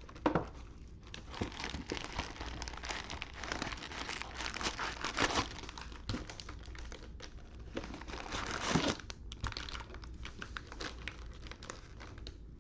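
Plastic wrapping and foil card packs crinkling and tearing as a sealed trading-card box is unwrapped and its packs are pulled out, in uneven crackly bursts that are loudest around the middle and about nine seconds in.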